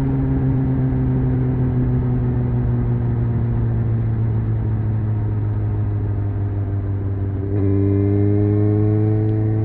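Honda CBR 600 F inline-four motorcycle engine under way, its pitch slowly falling on a light or closed throttle. About three-quarters of the way through the throttle opens: the engine gets louder and its pitch climbs steadily as it accelerates.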